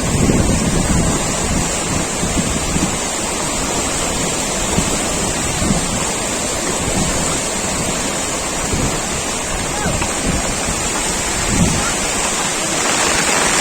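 Steady rush of fast-flowing floodwater, with wind buffeting the microphone in low rumbles.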